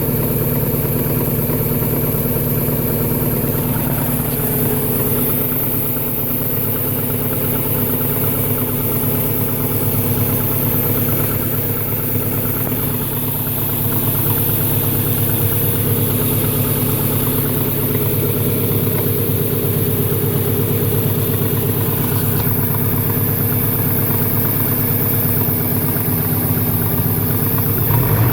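1998 Subaru Impreza 2.5RS's EJ25 flat-four engine idling steadily with a fast, repetitive knock, which the owner suspects is rod knock or piston slap.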